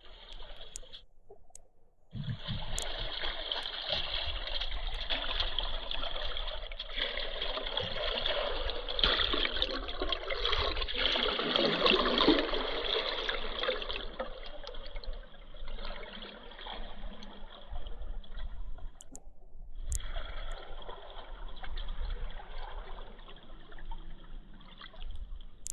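River water rushing and gurgling, dropping out briefly twice.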